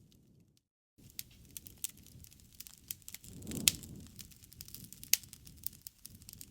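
Wood bonfire crackling and popping: many sharp snaps over a low rush of burning. The sound drops out completely for about half a second near the start. A swell of low flame noise comes a little past halfway and peaks in the loudest pop.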